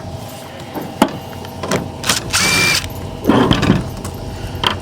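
A power drill runs briefly about halfway through, driving screws, among a few clanks of parts being handled over a steady background hum.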